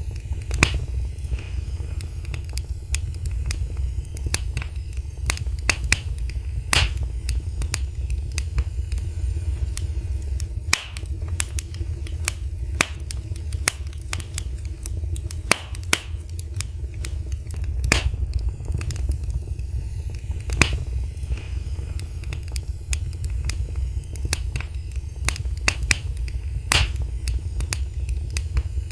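Wood fire in a fireplace crackling: sharp pops and snaps at irregular intervals, over a steady low rumble.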